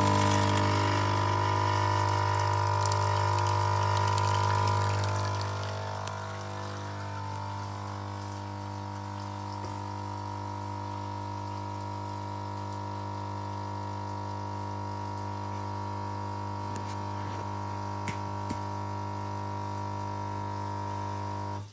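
Smith & Nobel espresso machine's pump running while it pulls a single shot of espresso: a steady hum, louder for the first five seconds or so, then a little quieter and even, cutting off near the end.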